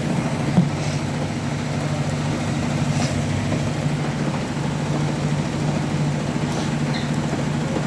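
Hotpoint ActiveCare washing machine on its spin cycle: a steady drum-and-motor hum with one short knock about half a second in. The owner calls it quite an unbalanced spin.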